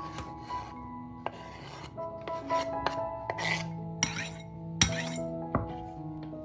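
Kitchen food preparation: a series of short rasping, rubbing strokes and a few sharp knocks of utensils, over soft background music.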